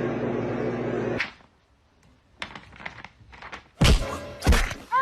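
A dense, steady background sound cuts off suddenly about a second in. After a few faint taps, two loud thumps come less than a second apart near the end.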